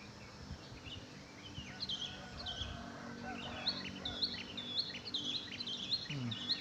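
Wild songbirds chirping: short, hooked, high notes that grow busier and repeat about twice a second in the second half.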